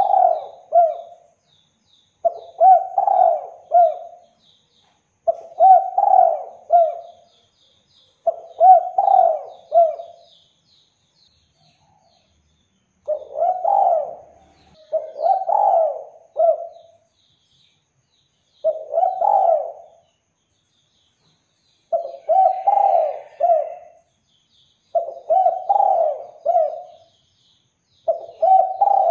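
Spotted dove (derkuku) cooing: a repeated phrase of about three hoarse coo notes, given roughly every three seconds, with a longer pause near the middle. Faint high chirps of small birds sound behind it.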